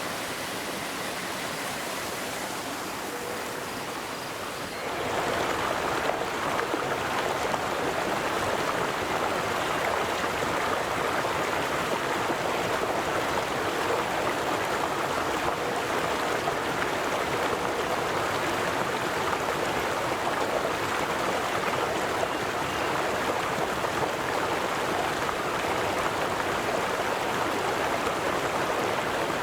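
River water flowing in a steady rush. About five seconds in it grows louder and fuller, then runs on evenly.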